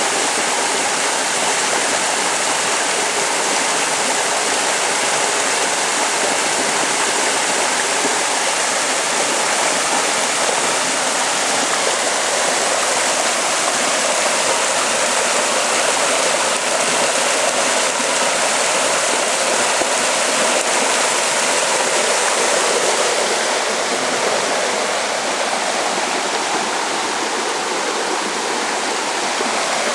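Steady, loud rushing water during a heavy downpour, from rainwater running off or a swollen stream. The highest part of the hiss thins slightly in the last few seconds.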